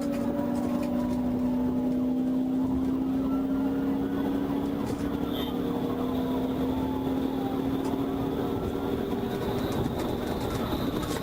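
Steady drone of a police aircraft's engine: a low hum that creeps slowly up in pitch, over a noisy background.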